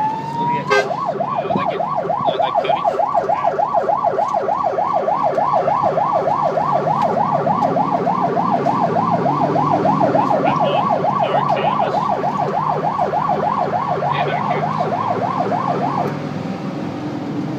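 Fire truck siren: a rising wail switches about a second in to a fast yelp, cycling several times a second, then cuts off suddenly near the end. The truck's engine and road noise run underneath.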